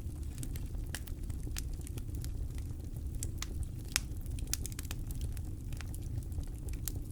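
Campfire crackling: irregular sharp pops and snaps of burning wood, one louder pop about four seconds in, over a steady low rumble.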